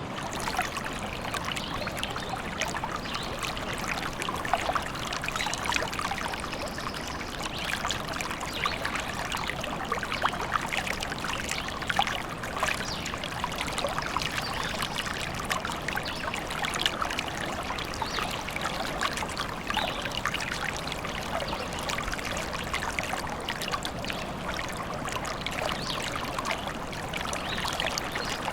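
A small stream trickling and babbling steadily, with many little splashes.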